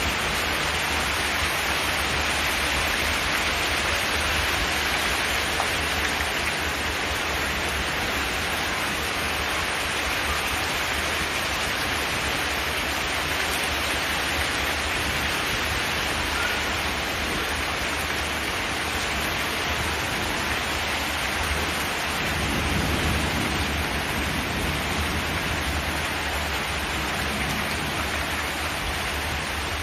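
Steady rain falling on a zinc metal roof, an even hiss of drops, with a low rumble that swells briefly about two-thirds of the way through.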